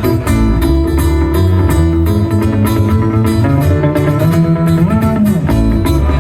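Live guitar music: an instrumental passage of a song with plucked and strummed guitar over a low bass line, at a steady beat and without singing.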